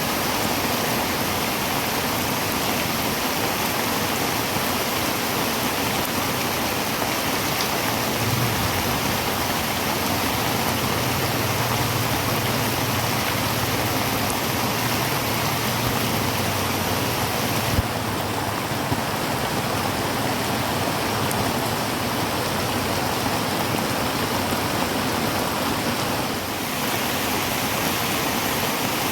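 Heavy rain drumming steadily on a tin roof, with a low rumble underneath for several seconds in the middle.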